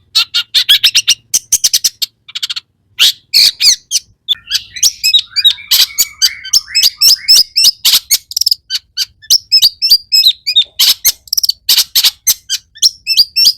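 Long-tailed shrike (cendet) singing a fast run of short, sharp chirps and harsh notes, several a second, with a brief pause near the start and some lower warbled notes in the middle. It is a full, mimicry-filled song from a bird in top singing form.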